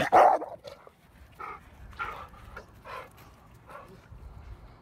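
Dogs vocalising during rough play: a loud burst of dog noise right at the start, then several short, separate dog sounds spaced about half a second to a second apart.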